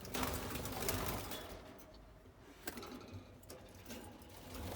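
Quiet aviary background: a soft rustle in the first second, then a few faint light ticks, the clearest a little under three seconds in.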